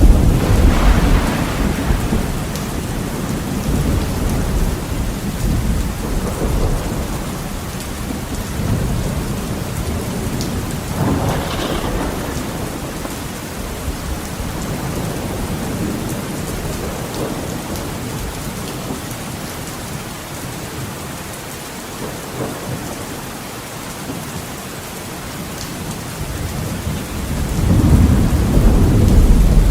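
Heavy rain beating steadily on a window pane, with rolling thunder: a deep rumble at the start that dies away over several seconds, a sharper clap about eleven seconds in, and another rumble building near the end.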